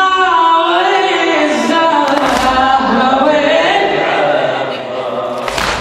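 Voices singing a slow Arabic Shia lament (latmiya) in long held, gliding notes, unaccompanied. Dull thumps come about two seconds in and again near the end.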